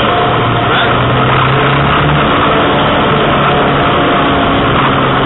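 Pontiac Solstice GXP's turbocharged four-cylinder engine running under load as the car drives on wet pavement, over a steady hiss. The engine note holds steady, with a small drop in pitch about two seconds in.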